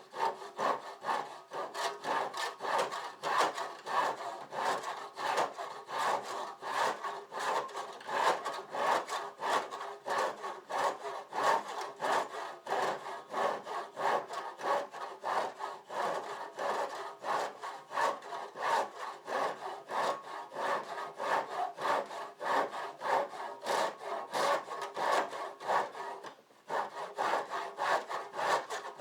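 Hand saw cutting through a garage door in steady back-and-forth strokes, about two a second, with a brief pause near the end.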